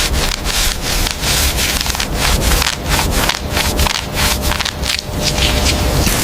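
Abrasive rasping strokes repeated several times a second, like hand sanding or scraping on a workpiece, over a low steady machine hum.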